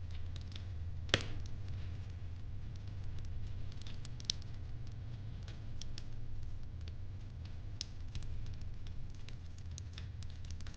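Fireplace crackling: irregular small crackles over a steady low rumble, with one sharp pop about a second in.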